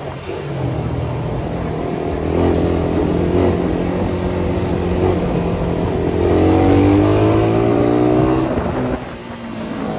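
Suzuki Satria FU 150's single-cylinder four-stroke engine running through its exhaust. It holds a fairly steady pitch, then the revs climb from about six seconds in and fall away just before the end.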